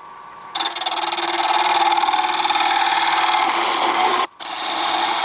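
A roughly 1-inch scraper cutting into wood spinning on a lathe at about 1100 RPM, hollowing the inside of a vase: a steady, loud scraping hiss that starts about half a second in, breaks off for a moment about four seconds in as the tool comes off the wood, then resumes.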